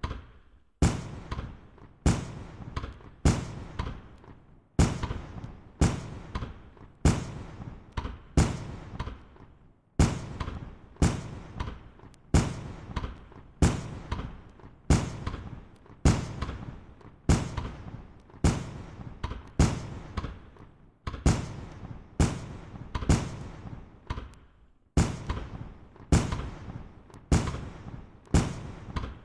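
Fireworks going off in a steady string, a sharp bang roughly once a second, each with a short echoing tail.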